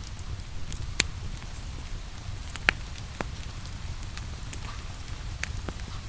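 Wood fire in a fireplace crackling, with scattered sharp pops, the loudest about a second in and a couple of seconds later, over a steady rain-like rush.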